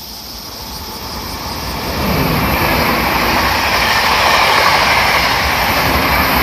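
Hankyu Kyoto Line rapid limited express train running through the station without stopping. Its noise builds over the first two seconds, then stays loud.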